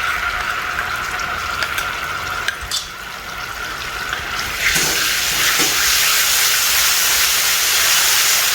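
Minced garlic and bean paste frying in hot oil: a steady sizzle that turns suddenly louder and brighter about four and a half seconds in, with a few light clicks in the first three seconds.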